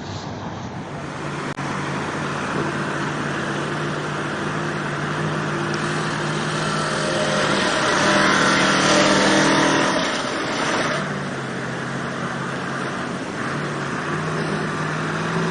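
A vehicle engine running under load. It works harder and grows louder about eight to ten seconds in, then eases back.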